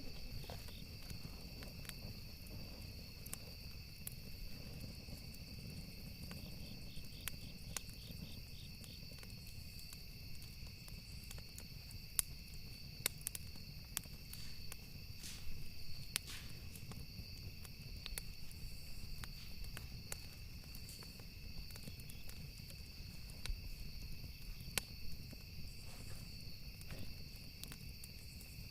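Campfire ambience: burning wood crackling in sharp, irregular clicks over a low steady rush, with crickets chirring steadily in the background.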